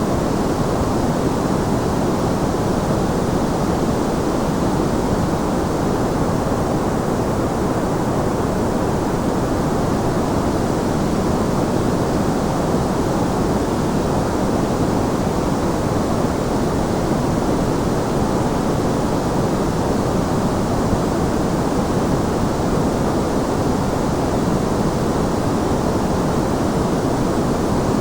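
Steady sleep-aid noise, an even, unbroken rushing sound weighted toward the low and middle range, with little high hiss. It does not change.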